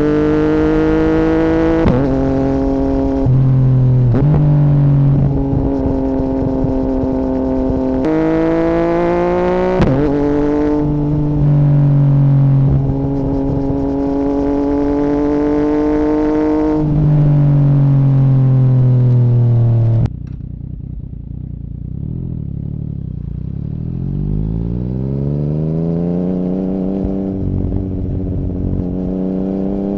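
2017 Yamaha MT-09's inline-three running through an Akrapovic Racing Line carbon full exhaust with the dB killer removed. It rises and falls in pitch as the rider pulls through the gears. About twenty seconds in the throttle closes and the note drops and quietens, then it climbs again in a smooth rise.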